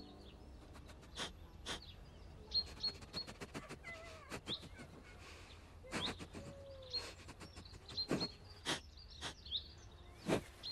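Birds chirping: scattered short, high chirps and sharp chip calls, some with quick rising or falling pitch, over a faint outdoor background.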